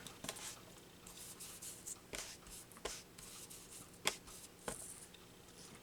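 Quiet paper handling: soft rustling and rubbing of paper on a card, with a few light taps and clicks spread through.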